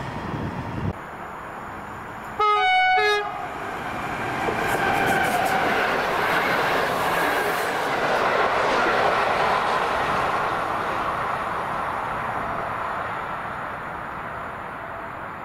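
Train horn sounding two short blasts, then the train running past on the track, its noise building and slowly fading away.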